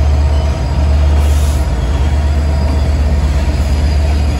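Train running: a steady, loud low rumble with a faint steady tone above it.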